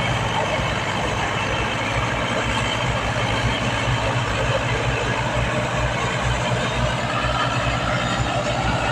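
Tractor diesel engine running steadily, with an even low pulse.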